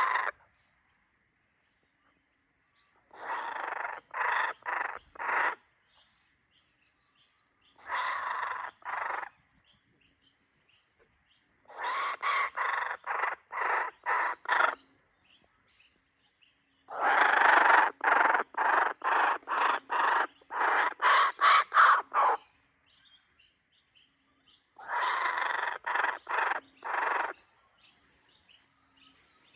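Laughing kookaburras calling in bouts of harsh, rapid, rattling notes, each bout lasting a few seconds with quiet between. The longest and loudest bout comes about halfway through.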